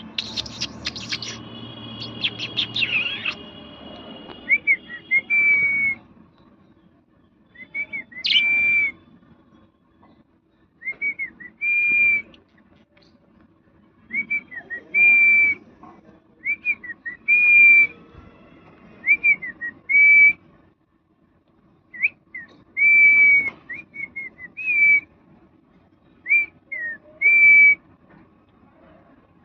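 A parrot whistling the same short phrase again and again: a couple of quick curved chirps and then a held whistle, repeated about every two to three seconds. A brief jumble of clicks and higher tones comes first.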